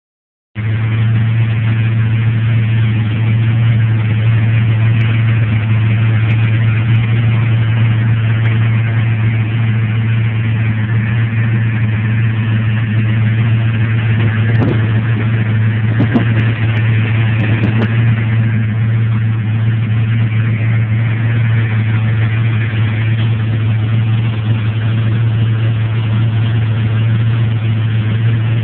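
Ford Mustang 5.0 V8 idling steadily, heard close up in the open engine bay, with an even, unchanging engine note. A few light clicks come through around the middle.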